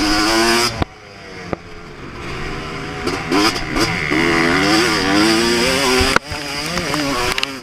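2024 Yamaha YZ250 two-stroke motocross engine ridden at full throttle: the revs climb and fall through the gears, the throttle is chopped about a second in and again near six seconds, and each time the engine pulls back up.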